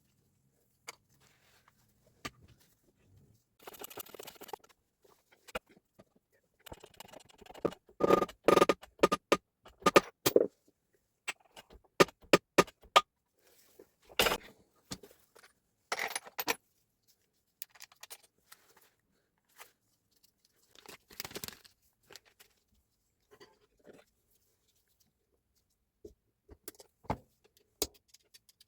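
Irregular clicks, clinks and short scrapes of small parts and hand tools being handled, with the busiest run of clicks in the first half.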